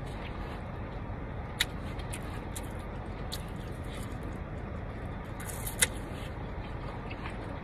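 A person chewing food close to the microphone, with soft mouth clicks and two sharper clicks, one about a second and a half in and one about six seconds in, over a steady low rumble.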